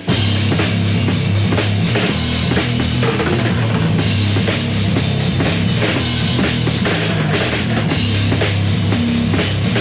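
Band demo recording of heavy rock music: the full band plays loud and dense, with drum kit, bass drum and snare driving a steady beat under bass and guitar.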